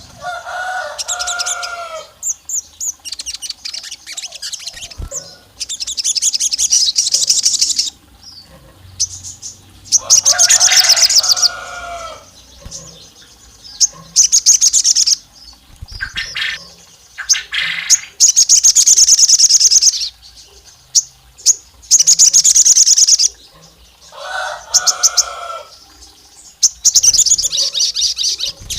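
Sogon sunbird singing: bouts of high, rapid chattering trills about two seconds long, repeated every few seconds, a song used as a lure call to provoke male sogon. Three times a lower, two-toned call sounds alongside the trills.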